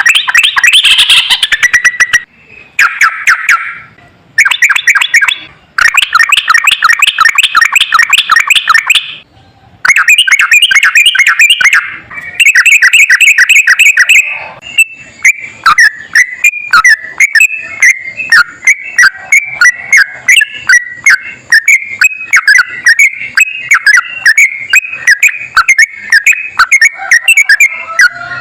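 Yellow-vented bulbul (trucukan) singing loudly in long, very fast runs of repeated notes (the 'ropel' prized by bird-keepers). The first half comes in phrases of a few seconds separated by short breaks. From about halfway it turns into one unbroken stream of quick, varied notes.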